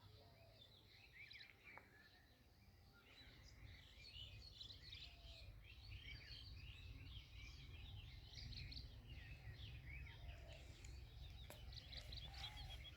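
Faint chorus of many small birds chirping and twittering, growing a little louder over the stretch, over a low steady rumble.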